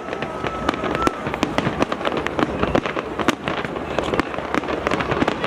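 Fireworks display going off in rapid, irregular bangs and crackles with no pause, with a faint whistle near the start.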